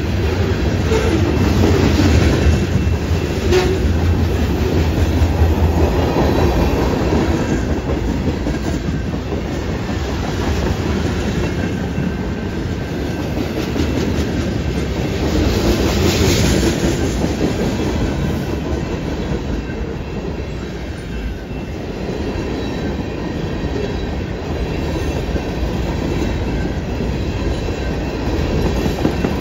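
Freight cars of a long CN mixed freight train (tank cars, covered hoppers, gondolas and boxcars) rolling past, their steel wheels on the rails making a steady, loud clatter.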